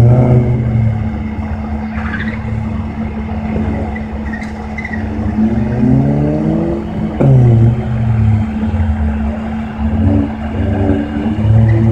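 A car engine being driven hard around a slalom course, revving up and dropping back several times as the driver accelerates, shifts and lifts between cones. A sudden drop with a sharp click about seven seconds in sounds like a gear change. A steady hum runs underneath.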